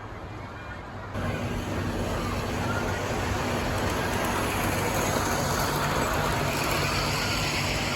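G-scale model train running on its track: a steady rumble of wheels on rail with a low motor hum. It starts abruptly about a second in and carries on, getting brighter in the middle.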